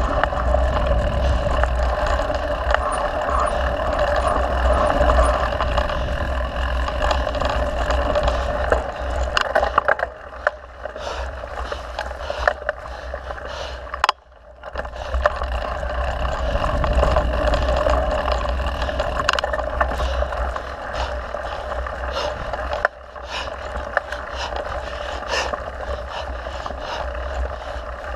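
Mountain bike riding noise on a dirt trail: a steady rush with many short rattles and knocks from bumps. It drops away briefly about halfway through, then picks up again.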